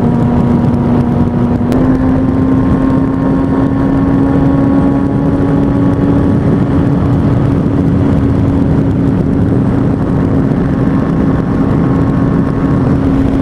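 Kawasaki ZX-6R 636 inline-four motorcycle engine running at a steady cruise under a constant rush of wind noise; its note rises a little about two seconds in and holds there.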